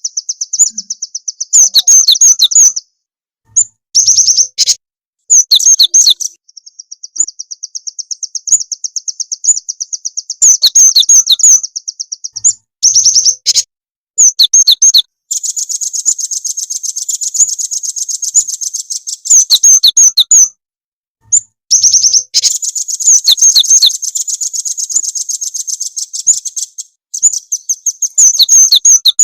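Birdsong from a lure recording of gelatik batu (cinereous tit) and rambatan (velvet-fronted nuthatch). It comes as long, very fast high-pitched trills, roughly a dozen notes a second, cut through by loud sharp chirps, with brief breaks between phrases.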